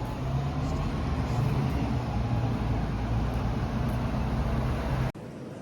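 City street traffic noise with a motor vehicle's engine running close by, a steady low rumble. It cuts off suddenly about five seconds in, leaving quieter street background.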